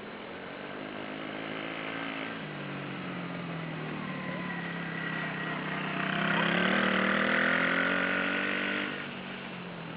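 Engine of a 110 cc crosser dirt bike running, its pitch shifting up and down; it grows louder about six seconds in and falls away near nine seconds.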